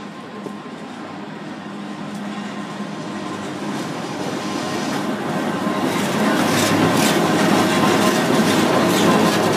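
Two EDR electric locomotives of the Kurobe Gorge Railway hauling a trolley train into a station, growing steadily louder as they approach. From about six seconds in they run close past at full level, with a steady hum and a run of sharp clicks from the wheels.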